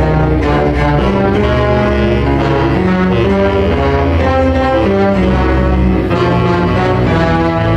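Orchestral music with low bowed strings and brass, a line of held notes that shifts pitch every half second or so over a steady bass.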